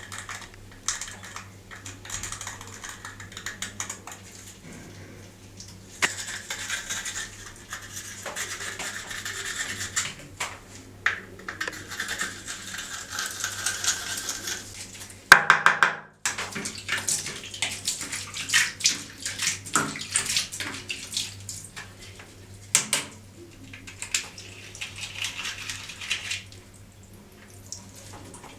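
Water running and splashing while a horn is washed and scrubbed by hand, with many small knocks and clicks from handling it. The water comes and goes in stretches and breaks off briefly a little past halfway.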